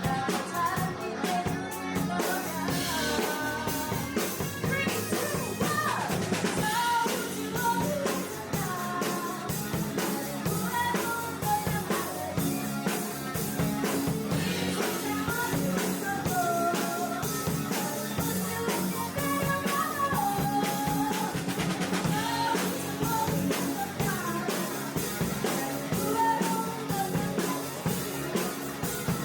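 Live rock band playing a song: a drum kit keeps a steady beat under a sung melody line.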